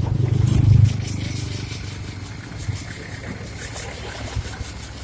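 A motor vehicle's engine rumbling close by, loudest in the first second, then fading to a lower steady rumble with a faint steady high whine.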